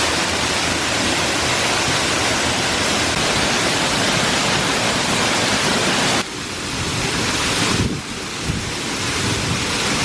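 Waterfall rushing heavily, a loud, steady hiss of falling water. The sound drops suddenly in level about six seconds in and again about eight seconds in.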